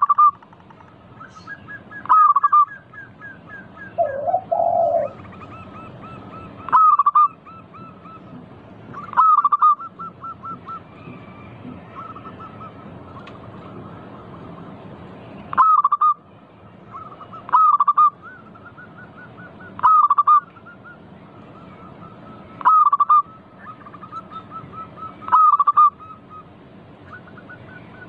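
Zebra doves (perkutut) cooing: loud short coos repeat every two to six seconds, with runs of soft, quick notes between them. A brief lower call comes about four seconds in.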